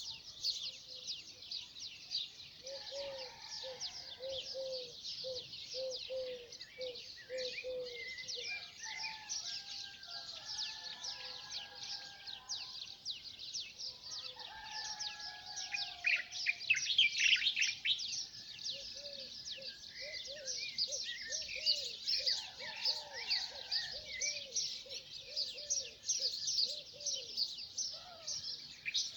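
Dawn bird chorus: many birds chirping densely and high-pitched, with some lower whistled phrases. A lower call repeats as a run of short notes, once a few seconds in and again past the middle.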